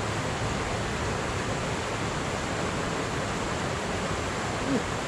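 Steady rush of a fast-flowing shallow river, with a brief low hum near the end.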